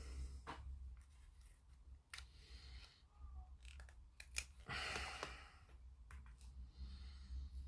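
Quiet handling sounds of masking tape being cut and laid on a plastic model: a few light clicks and a short scissor-like snip-and-scrape about five seconds in, over a steady low hum.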